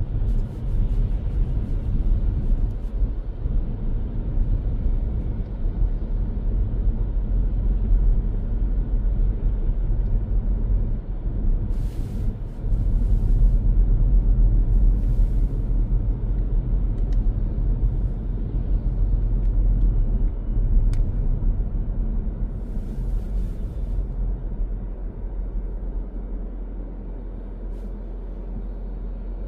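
Car driving through city traffic, heard as a steady low rumble of road and engine noise, with a few brief hisses and a single click partway through.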